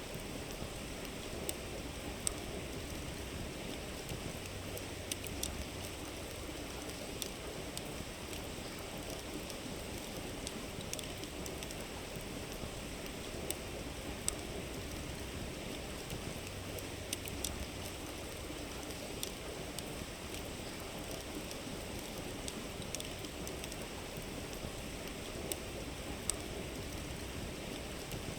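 Wood campfire crackling, with scattered sharp pops, over the steady rush of a river.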